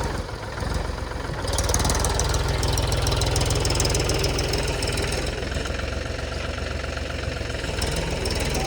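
Mahindra tractor's diesel engine running with a steady knocking beat, getting louder and more clattery about a second and a half in.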